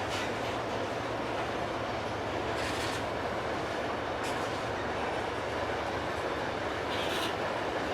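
Freight train rolling past: a steady rumble of wagons on the rails with a low hum underneath, broken by a few brief high-pitched bursts of wheel-on-rail noise.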